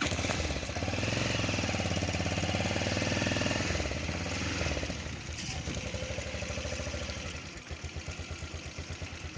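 A vehicle engine running close by with a steady rapid firing beat. It drops in level around the middle, and the separate firing strokes stand out near the end.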